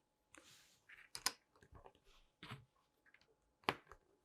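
LEGO plastic bricks being handled and pressed together: a few sharp clicks and small rattles, with a short soft hiss about half a second in.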